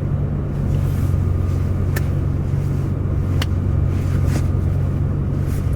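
Steady low drone of a car heard from inside the cabin while driving, engine and road noise together, with two short sharp clicks, one about two seconds in and another a second and a half later.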